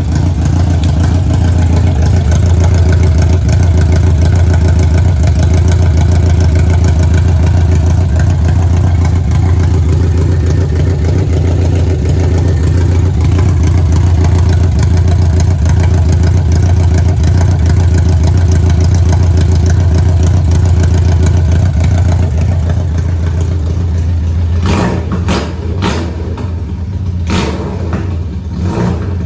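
1991 BMW K1's inline-four engine running steadily through an aftermarket exhaust, with a strong, even low hum. A few sharp clicks come near the end.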